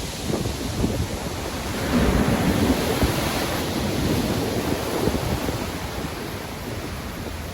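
Rough, stormy ocean waves breaking and washing in, with wind; one wave swells to its loudest about two seconds in, then the surf slowly ebbs.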